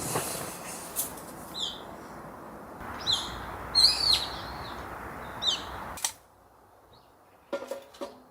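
A small bird chirping, five or so short calls with quick pitch swoops, over the steady hiss of rain. The rain hiss cuts off suddenly about six seconds in, and a few quick clicks follow near the end.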